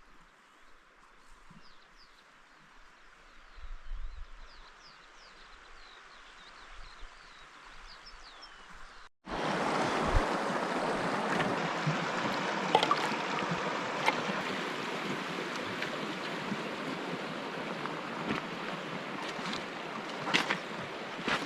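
Faint chirps of small birds over a quiet background. After a sudden cut about nine seconds in, a loud, steady rushing noise with scattered clicks takes over.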